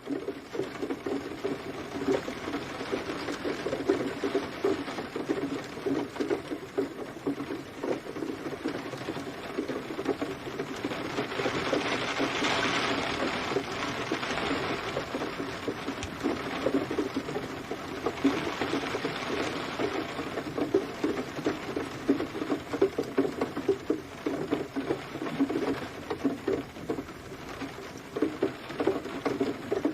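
Steady rain pattering on a hard surface: a dense, irregular crackle of drops over a hiss of rainfall that swells briefly twice, about a third and two thirds of the way through.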